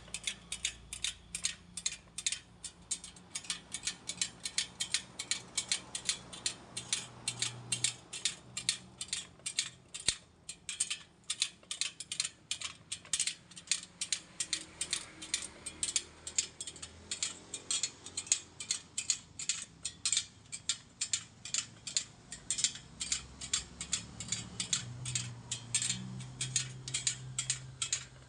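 Rapid, even mechanical clicking, about four clicks a second, as a motorcycle wheel is worked on during rim truing.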